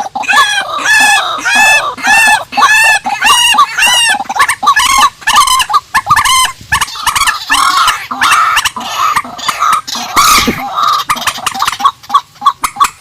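Rails calling: a fast run of repeated arching notes, about three a second, that turns into a denser, more ragged string of calls about seven seconds in.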